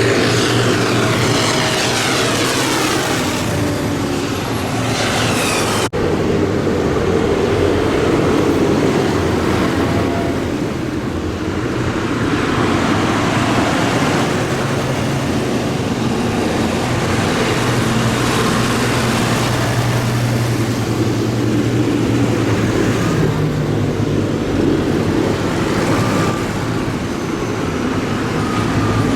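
Tractor engines running steadily as a procession of tractors drives past, one passing close in the first few seconds with its pitch falling. A sudden short break about six seconds in.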